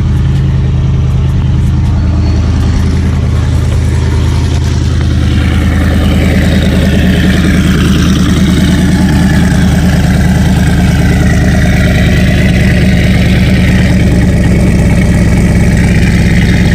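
Cammed twin-turbo LSX V8 in a Nissan 240SX idling steadily and loudly, with a higher-pitched noise over it growing stronger from about five seconds in as the engine note rises slightly.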